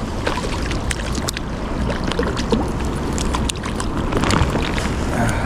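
Steady rush of river current, with scattered small clicks and splashes as a small brown trout is brought in over rocks at the water's edge.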